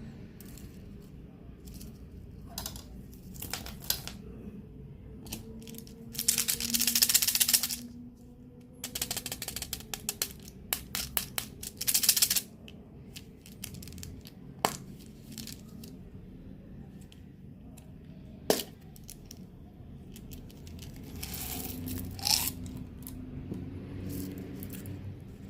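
Plastic candy wrappers being crinkled and torn open in several bursts, with a couple of sharp single taps in between.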